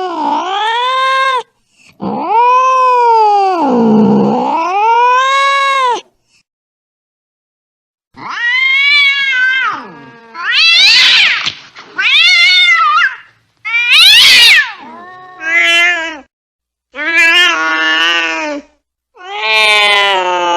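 Domestic cat yowling angrily (caterwauling). First come long, wavering yowls, then about two seconds of silence, then a string of shorter yowls that rise and fall, one of them harsher and shriller about two-thirds of the way through.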